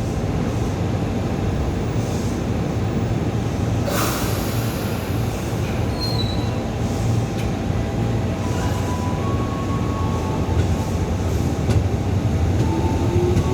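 Electric commuter train rolling into a station with a steady rumble of cars and wheels on the rails. A brief sharp noise comes about four seconds in, and a short high-pitched wheel squeal about six seconds in.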